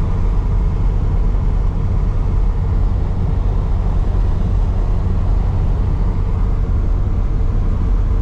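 Inside the cabin of a 1989 Chevy G20 van on the move: a steady low engine drone and road rumble.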